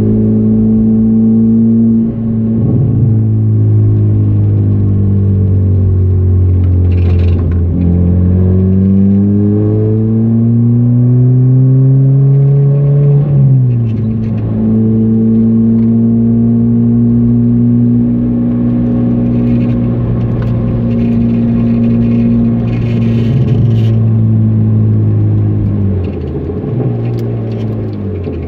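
Car engine heard from inside the cabin on a fast circuit lap, a steady drone that climbs in pitch and drops sharply about halfway through as the driver shifts or lifts. The engine holds steady, then dips again near the end.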